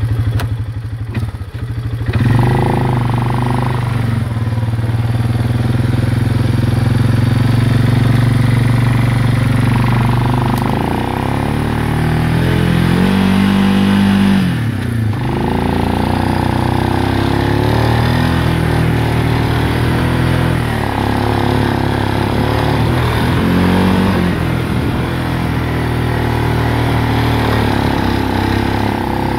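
ATV (quad) engine running under load as it climbs through deep snow, the revs rising and easing with the throttle; about halfway through the pitch climbs, drops sharply for a moment, then picks up again.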